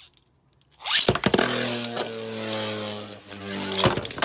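Beyblades launched with a ripcord launcher about a second in, then spinning tops whirring in a plastic stadium with a steady hum that slowly drops in pitch as they slow, broken by sharp clacks as they collide. A cluster of hits comes near the end.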